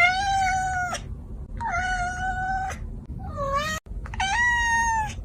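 Domestic cat meowing repeatedly: three long meows of about a second each, with a shorter, lower call between the second and the third.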